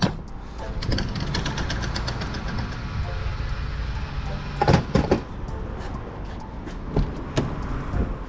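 BMW E46's 3-litre M54 straight-six running steadily inside the cabin while driving, with clicks and knocks from the car and a few louder thumps about five seconds in.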